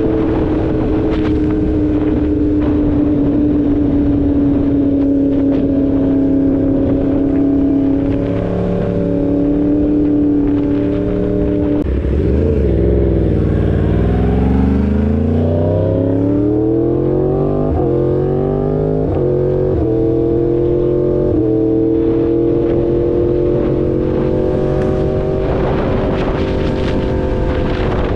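2016 Yamaha R1's crossplane inline-four engine running at a steady cruise, then about twelve seconds in the revs drop sharply and the engine pulls hard through several quick upshifts before settling back into a steady cruise.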